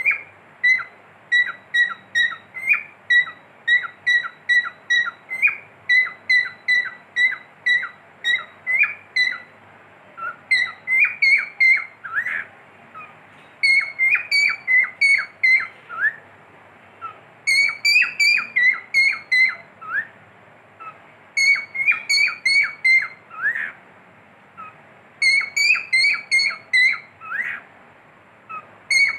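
Cockatiel whistling: rapid runs of short, high whistled notes, many with a quick downward flick, in repeated phrases separated by brief pauses.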